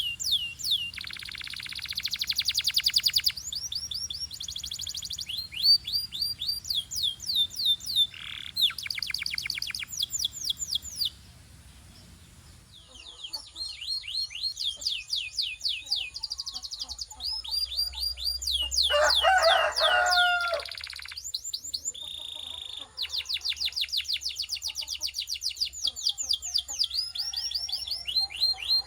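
Canary singing: fast trills of high rising notes in quick runs of many per second, with a short pause near the middle and a lower-pitched warbling phrase about two-thirds of the way through.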